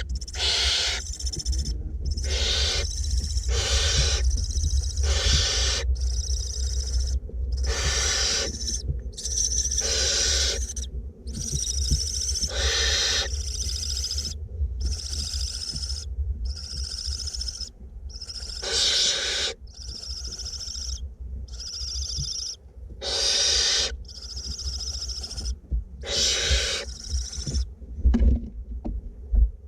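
Barn owlets giving their rasping begging hisses over and over, each about half a second to a second long with short breaks between them. Barn owl chicks make this snoring hiss to ask for food.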